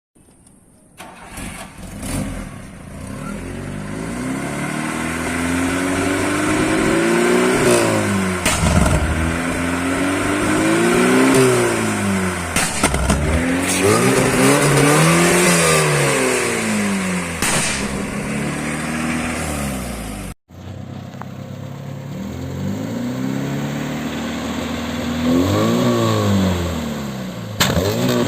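VAZ 'classic' four-cylinder engine revved up and down again and again, each rise and fall in pitch lasting a few seconds, with sharp pops from the exhaust now and then: deliberate exhaust backfiring. The sound cuts out abruptly about twenty seconds in and starts again straight after.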